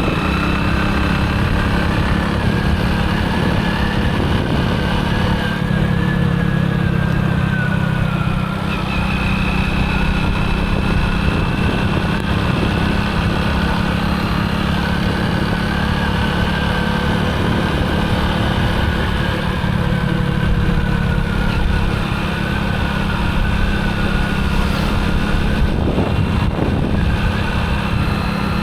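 Motorcycle engine running steadily on the move, with no sharp changes in speed.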